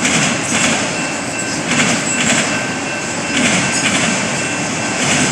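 Train cars rolling past, a steady rumble and rush of wheels on rail with a regular clacking roughly every half second.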